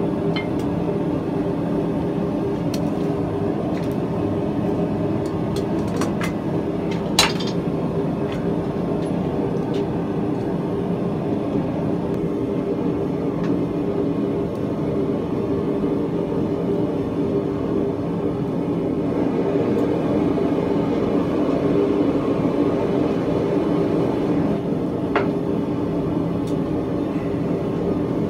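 Steady roar of a running forge, unchanging throughout, with a few light clicks and one sharper metallic click about seven seconds in.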